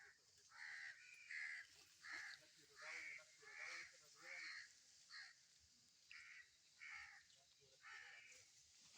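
Crows cawing over and over, a dozen or so short harsh calls in quick succession, faint.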